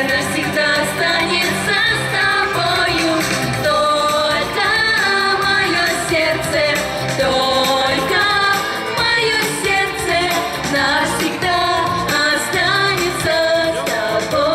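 Singing over pop-style musical accompaniment.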